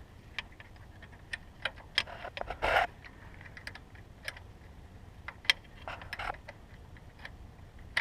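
Irregular light clicks and taps of hand tools worked on a diesel engine's fuel system, with two short scraping rustles, about two and a half and six seconds in.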